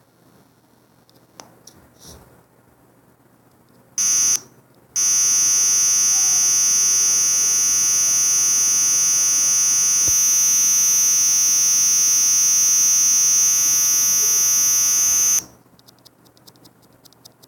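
Loud, harsh buzzer tone: a short blast about four seconds in, then a steady blast lasting about ten seconds that cuts off suddenly. Faint clicks and handling noise come before it.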